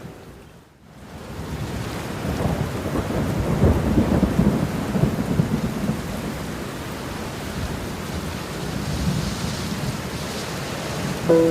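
Steady rain with a rolling thunder rumble that swells about two seconds in and dies away a few seconds later. The sound drops out briefly right at the start.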